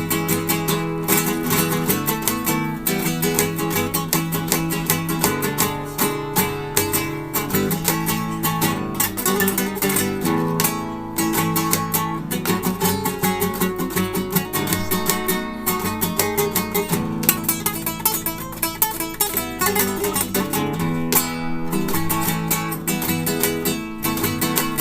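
Solo acoustic guitar playing a piece, with quick plucked notes and strummed chords.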